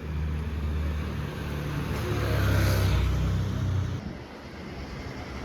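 Traffic noise: a motor vehicle passes close by, rising to its loudest a little under three seconds in and dropping away about four seconds in, over a steady low rumble.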